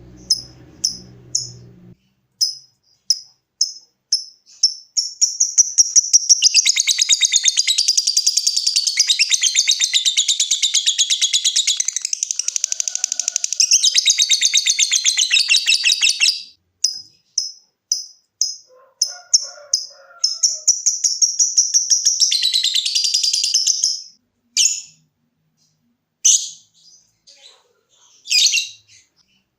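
Lovebird ticking in short, sharp, high chirps a few times a second ('ngetik'), breaking about five seconds in into a long, rapid chattering trill ('ngekek') of about ten seconds. Ticking resumes, then a second, shorter trill comes about three-quarters of the way through, followed by a few scattered calls.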